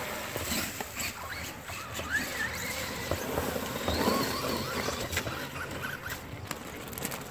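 Brushless electric motors of Traxxas Rustler VXL RC trucks whining in short rising and falling squeals as they throttle through mud, over a steady hiss of churning wheels, with scattered clicks.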